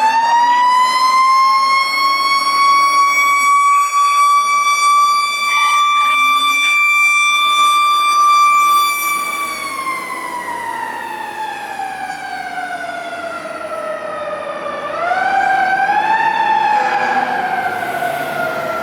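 Federal Q mechanical siren on a fire truck, winding up to a steady high scream held for several seconds, then slowly winding down. Partway down it is briefly pushed back up, then it winds down again.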